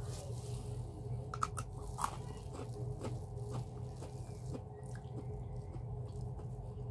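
Close-up mouth sounds of someone chewing and crunching raw carrot, with a cluster of crisp crunches about one and a half to two seconds in and softer chewing after, over a steady low hum.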